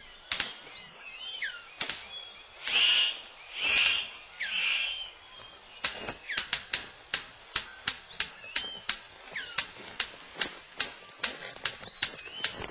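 Male superb bird of paradise in courtship display: a few harsh, rasping bursts in the first half, then a run of sharp, regular clicks, about three a second, as he dances for the female. Thin whistled glides of other forest birds sound in between.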